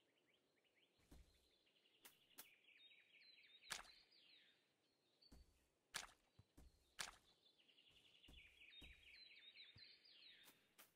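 Faint bird song: a quick run of short, downward-sliding chirps, heard twice, with a few sharp clicks in between.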